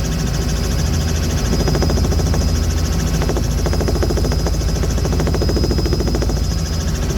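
Aircraft engine running steadily in flight, a constant loud drone with a fast, even pulsing.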